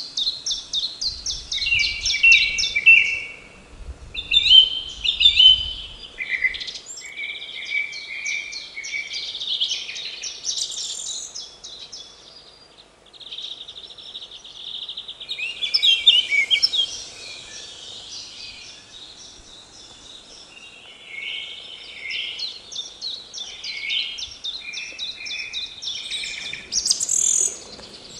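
Songbirds singing, several at once, a steady overlapping stream of quick chirps and trills.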